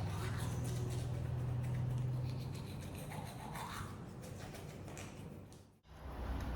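Toothbrush scrubbing teeth: quick, scratchy back-and-forth brushing strokes.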